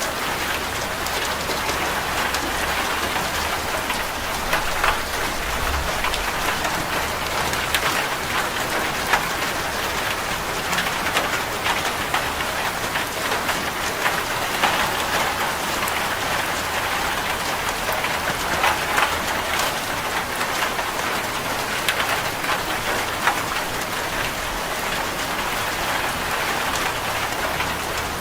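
Steady heavy rain drumming on a corrugated zinc (seng) roof, a dense hiss of drops with scattered sharper drop impacts.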